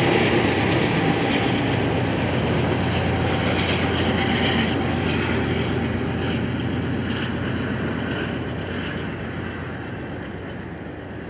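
Coal train's freight cars rolling by, a steady rumble with wheel clatter on the rails, gradually fading as the train moves away.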